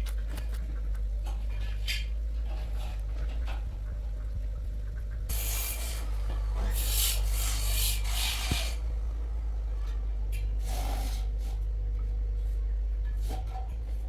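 Irregular scraping strokes, loudest and most continuous from about five to nine seconds in, over a steady low hum.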